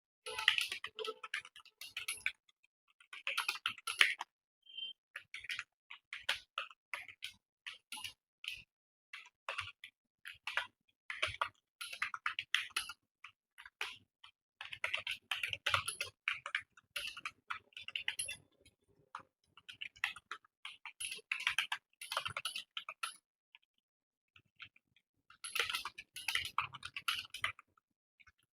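Computer keyboard being touch-typed fast: runs of rapid key clicks broken by short pauses, with one longer pause of about two seconds near the end.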